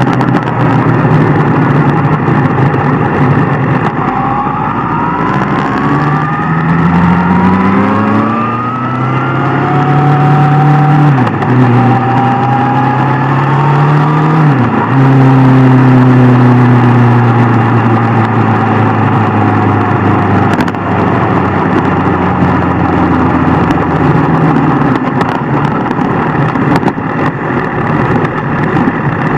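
Inline-four superbike engine accelerating hard, its pitch climbing, with two quick upshifts (the pitch drops sharply about a third of the way in and again about halfway), then holding speed and easing off, over steady wind and road rush.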